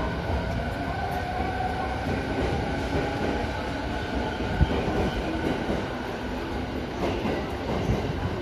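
Yokosuka Line electric train cars rolling slowly past along the platform as they depart, with a steady rumble of wheels on rail, a faint high whine and occasional sharp knocks, the loudest about four and a half seconds in.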